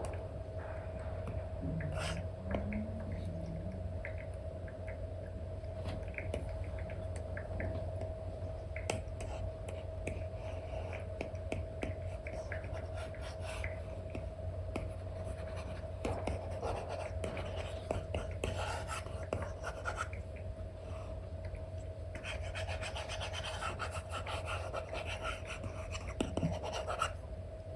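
Apple Pencil strokes scratching on a paper-like screen film over an iPad: short rubbing, writing-like strokes, busier and denser near the end. A steady low hum runs underneath.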